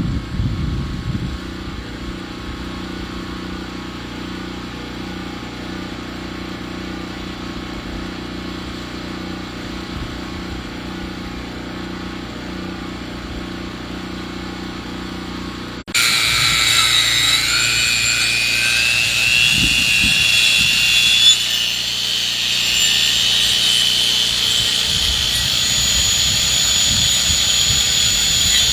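A sawmill engine running steadily. About halfway through it switches abruptly to a louder saw cutting through a log, with a high whine that wavers in pitch.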